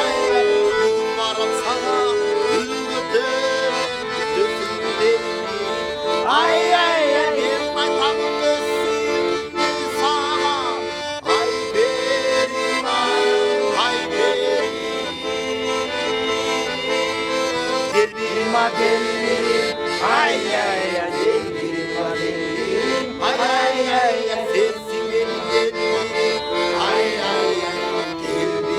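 Accordion music: steady held chords with a melody moving over them.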